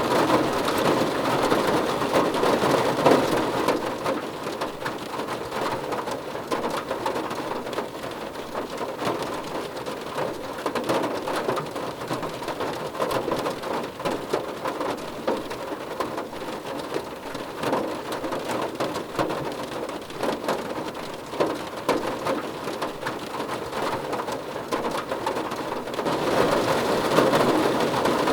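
Rain falling on a car roof, a dense patter of individual drops. It eases a few seconds in and grows heavier again near the end.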